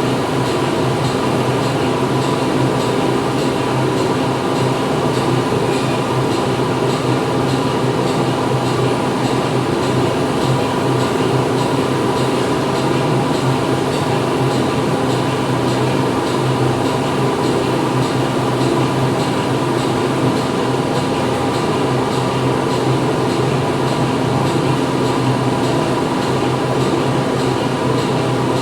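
Factory machinery running steadily: a constant mechanical drone with several steady hum tones under a dense noise, unchanging throughout.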